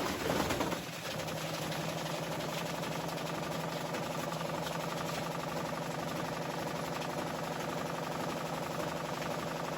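Washing machine running, its motor giving a steady mechanical drone with a constant low hum. It is louder and rougher for about the first second, then settles to an even level.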